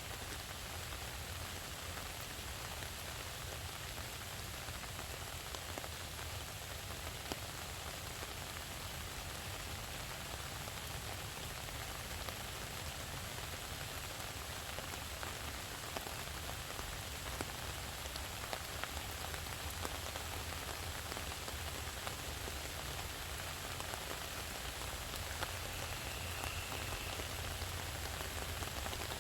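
Steady rain: an even hiss with scattered individual drops ticking, over a low steady rumble.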